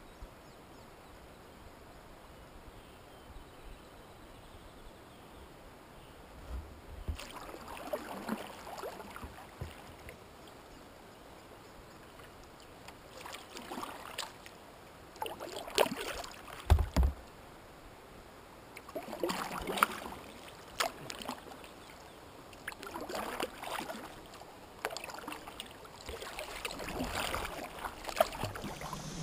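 Kayak paddle strokes: the blades dip and splash in the water in a loose, uneven rhythm, starting about seven seconds in, with one low thump partway through.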